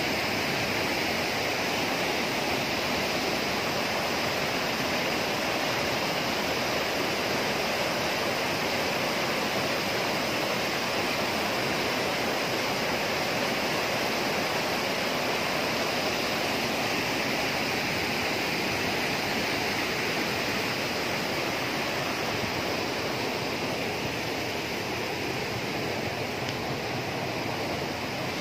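Steady rush of fast-flowing water, unbroken and even throughout.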